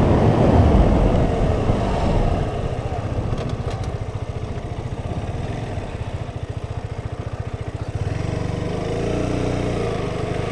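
KTM RC 125's single-cylinder four-stroke engine running at low revs with a fast, even putter as the bike rolls slowly, after a hard timed run; wind noise is strong at first and fades. The engine note picks up a little about eight seconds in.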